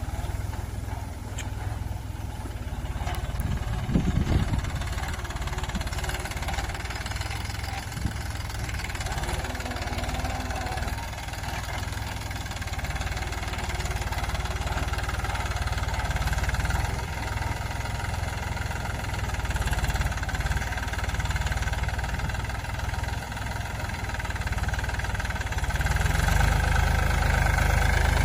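Tractor engine running steadily, getting louder near the end.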